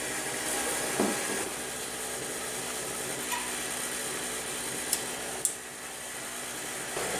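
The first fire being lit in a newly installed wood stove: a steady hiss with a few sharp clicks and knocks.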